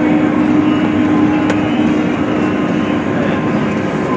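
Steady drone of a running vehicle engine with a constant low hum, and a single brief tick about a second and a half in.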